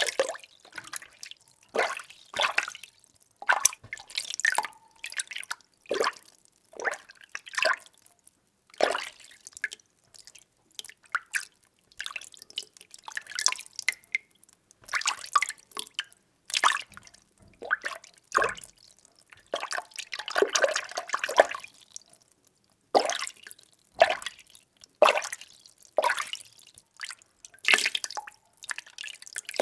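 Water being stirred by hand, with short irregular sloshes and splashes about once or twice a second, bunching into a longer swirl about two-thirds of the way through.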